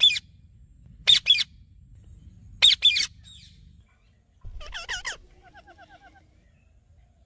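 Pet parrot calling: three short, shrill screeches about a second and a half apart, then a softer, lower warbling chatter and a few faint quick chirps.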